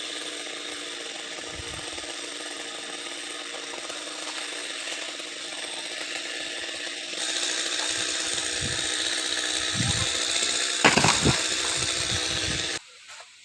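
Chainsaw cutting a coconut palm trunk, running steadily and then louder about halfway through as it works harder, with a few loud knocks near the end. It cuts off abruptly shortly before the end.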